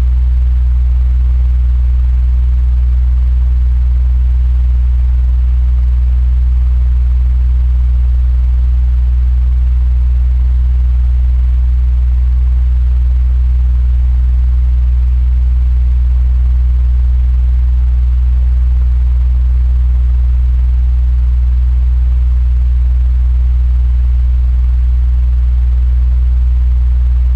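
Electric fan running steadily: a strong, even low hum with a faint airy hiss above it.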